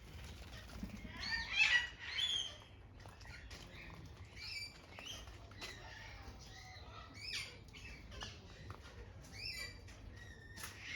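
A flock of parrots squawking and chirping, many short calls overlapping, with a louder burst of calls about two seconds in.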